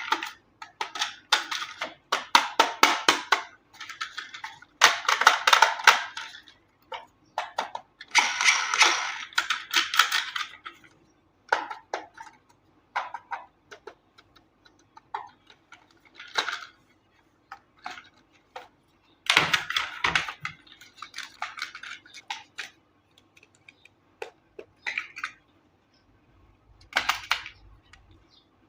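Plastic packaging and toy parts being handled: rustling, crinkling bursts of a second or two between runs of quick clicks and light clatters.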